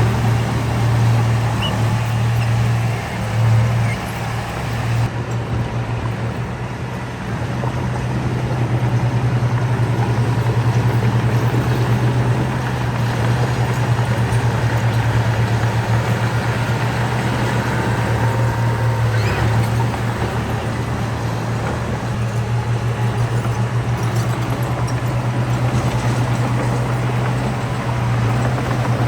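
Heavy diesel engine of earthmoving equipment running steadily: a low pulsing drone that grows louder about eight seconds in.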